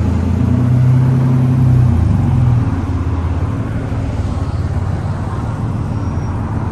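BMW E36 M3's straight-six engine running under way. Its steady drone steps up slightly near two seconds and eases off about two and a half seconds in, then runs on a little quieter.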